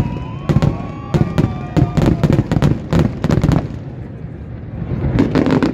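Aerial firework shells bursting in a rapid barrage of sharp bangs. The barrage thins out about three and a half seconds in, then another quick cluster of bangs comes near the end.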